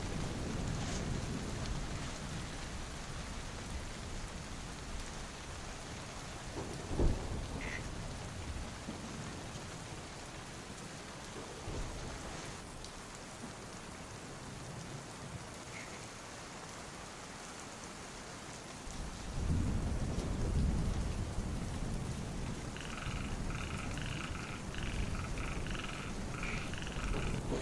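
Steady heavy rain, with a single sharp crack about seven seconds in and a low rumble of thunder about two-thirds of the way through. Near the end, frogs call in quick repeated croaks.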